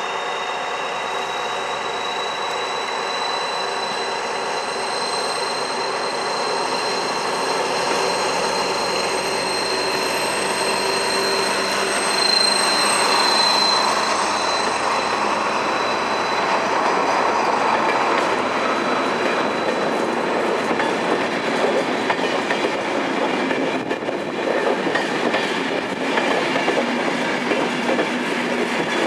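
SNCF BB 67400 diesel locomotive and its Corail coaches rolling slowly past, with a high steady wheel squeal over the rumble of the train. In the second half, as the coaches go by, the wheels click over the rail joints.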